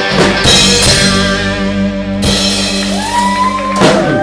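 Live rock band playing, with drum kit and guitar. About three seconds in, a long held note slides up into place.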